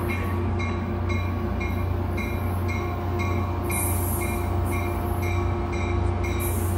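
Caltrain commuter train approaching a station platform: a steady low engine rumble, with a bell ringing about twice a second. Brief high hisses or squeals come in around four seconds in and again near the end.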